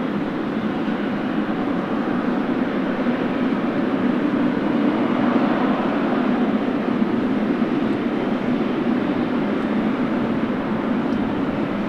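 Steady, loud rumble of a Boeing 777F's jet engines, swelling slightly a few seconds in.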